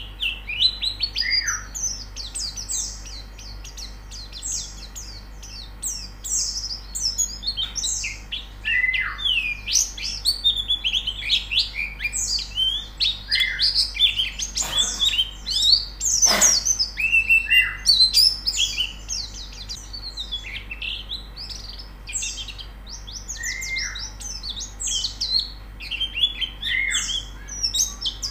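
Pleci (white-eyes) twittering in fast, high chirps, several birds overlapping, with short down-slurred calls now and then.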